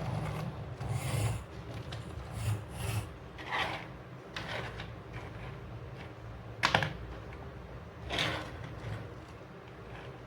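Plastic toy truck and toy cars being handled: irregular light knocks, clicks and rubbing scrapes, with one sharper click about two-thirds of the way through.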